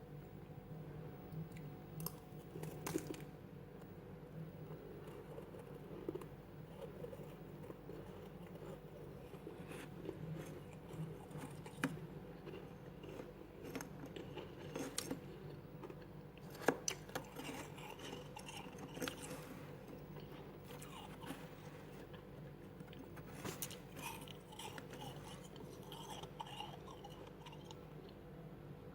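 Freezer frost being bitten and chewed close to the microphone: irregular crisp crunches, some louder than others, over a faint steady hum.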